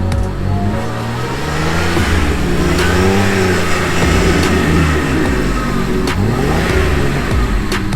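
Jeep engine revving, its pitch rising and falling as the throttle is worked.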